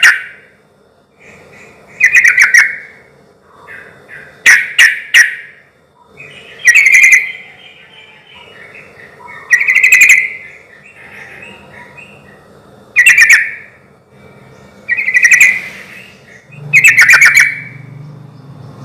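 Yellow-vented bulbul (trucukan) in full song: loud, bubbly phrases repeated about every two to three seconds, with softer chattering notes between them.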